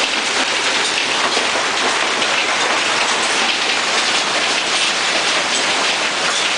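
Golf-ball-size hail pelting down with rain in a dense, steady clatter of countless impacts.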